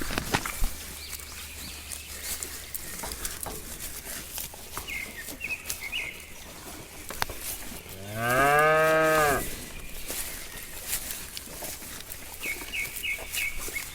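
A cow mooing once, a single call of about a second and a half starting about eight seconds in, its pitch rising then falling.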